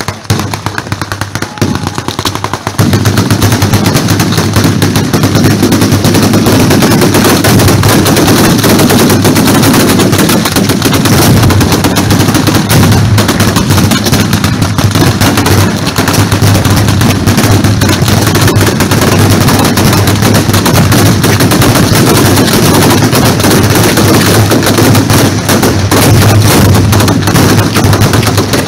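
Fireworks going off in a loud, rapid barrage of bangs: scattered pops at first, then an unbroken machine-gun-like rattle from about three seconds in.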